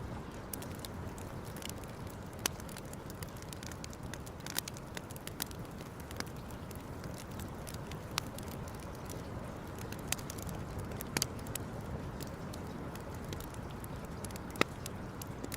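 Wood campfire crackling, with irregular sharp pops and snaps over a steady low rushing noise.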